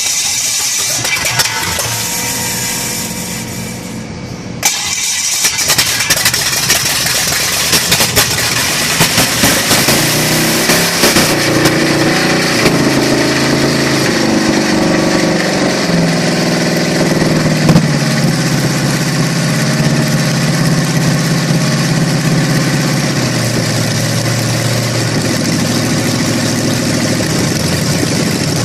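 Chevrolet 350 small-block V8 test run on a stand, out of the vehicle. After a brief lull it comes back in sharply about five seconds in, runs with revs rising and falling, and settles to a steadier, lower idle in the last few seconds.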